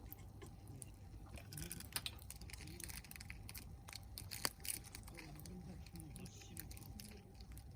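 Log campfire crackling, with scattered sharp pops, the loudest about four and a half seconds in.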